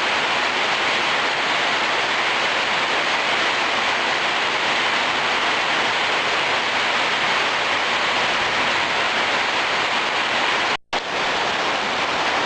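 Heavy rain pouring down as a steady, dense hiss, cutting out for an instant near the end.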